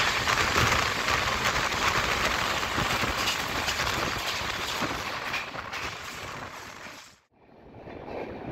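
Express train running at speed, heard from an open window: a steady rushing noise of wind and wheels on the rails. It fades, drops out briefly about seven seconds in, then comes back more quietly.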